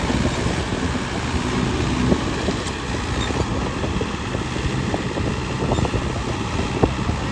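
Swaraj tractor's diesel engine running steadily, with a low rumble that does not rise or fall.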